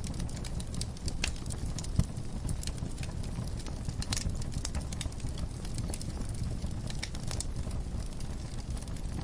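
Wood fire burning in a fireplace: a low steady rumble of flames with irregular crackles and pops, one sharp pop about two seconds in.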